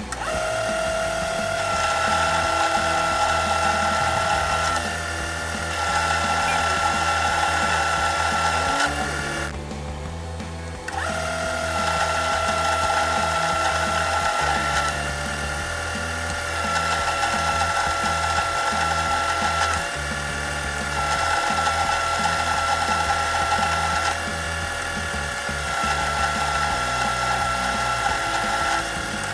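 Metal lathe turning an aluminium bar: a steady gear-drive whine with cutting noise, running in passes of a few seconds that alternate louder and quieter, with a short break about nine seconds in.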